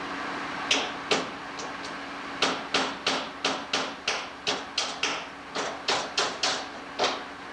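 A run of sharp knocks on a hard surface, about fifteen in all, coming roughly three a second through the middle, over a steady low hum.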